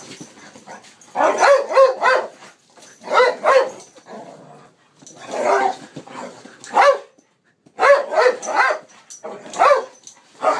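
Dog barking in agitated bursts, a few short barks at a time, about seven bursts with brief pauses between. It is upset at being offered hot sauce.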